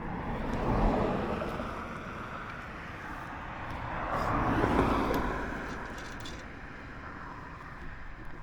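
Road traffic going past: two rushes of tyre and wind noise that rise and fade, the first about a second in and the second, louder, around five seconds in.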